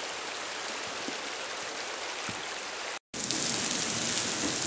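Steady rain falling. About three seconds in the sound drops out for a moment and comes back as louder, heavier rain.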